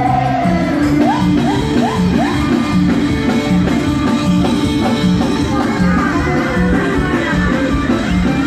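Live band music with a steady beat and a repeating bass line, with a run of four short rising notes about a second in.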